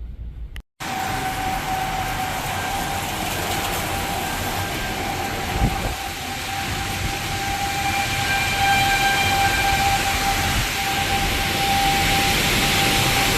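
Strong wind and rain noise, getting louder toward the end, with a steady siren tone held through it that swells and fades; this is typical of an outdoor tornado warning siren sounding during the storm.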